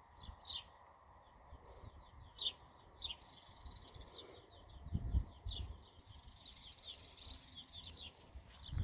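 Small birds chirping over and over, short high falling chirps that come thicker in the second half. A few low thumps break in, the loudest about five seconds in.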